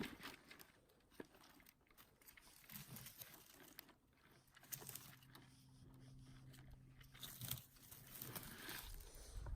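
Faint crunching footsteps on the forest floor, with a faint steady low hum in the middle for a couple of seconds.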